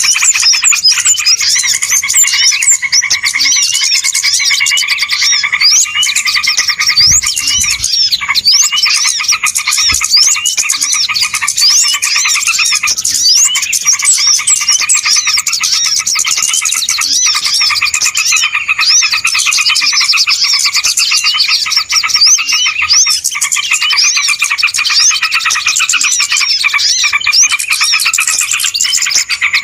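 Bird-lure recording of a dense, noisy chorus of many small birds, with overlapping rapid chirps and twitters running on without a break.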